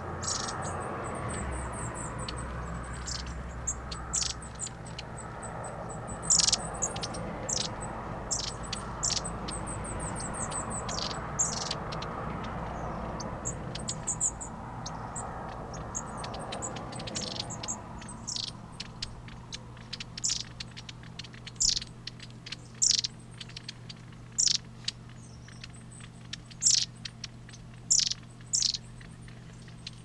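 Tits at a peanut feeder giving a string of short, high-pitched calls, some in quick runs, spaced out to roughly one a second in the later part. A low background rumble underneath drops away about two-thirds of the way through.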